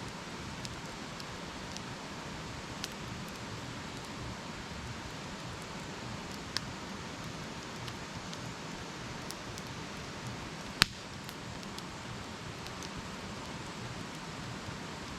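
Wood campfire burning with a steady hiss and scattered crackles, and one sharp pop about eleven seconds in, louder than the rest.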